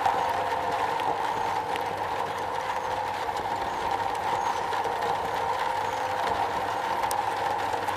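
Steady rain drumming on a metal roof, an even hiss without let-up.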